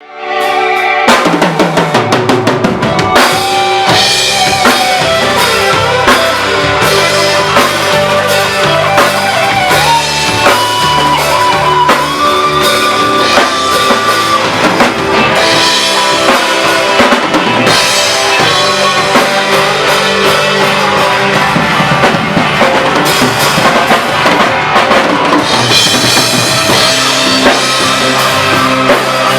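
A live band playing a rock-style worship song, with the drum kit loudest: kick, snare and rimshots under guitar and other instruments. It opens with a quick run of drum hits before the full band comes in.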